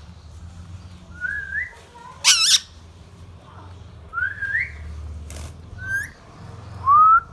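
Indian ringneck parakeet giving short rising whistles, four or five times, with one loud harsh screech about two seconds in. The last whistle, near the end, is the loudest.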